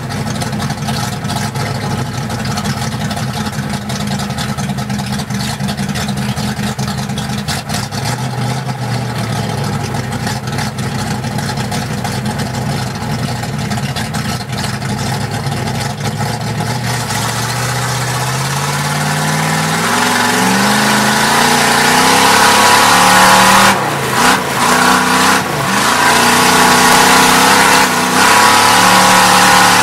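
Oldsmobile 350 V8 race engine heard from inside the cabin, running steadily at low revs at first. About halfway through it grows louder and revs up hard in repeated climbs, each broken by a brief drop, as the car accelerates onto the dirt oval.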